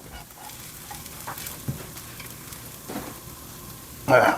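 Parmesan and bacon crisps frying in a pan over medium-low heat, a steady sizzle with a few light clicks of a spatula as the crisps are turned.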